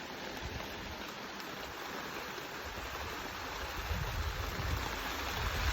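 Steady rushing noise, like running water or rain, starting abruptly. Low, gusty rumbles build up about two-thirds in.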